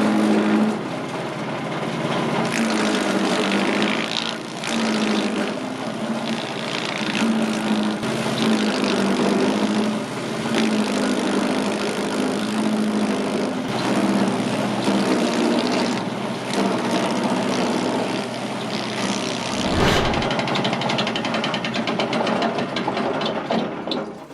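Wood grinding machine running steadily, a wavering motor hum under dense clicking and rattling; a brief low thump comes about twenty seconds in, and the sound falls away at the very end.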